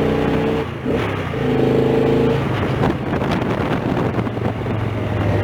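Motorcycle engine running under way, with road noise. The engine note breaks off briefly about a second in, comes back, and settles to a lower steady note in the second half.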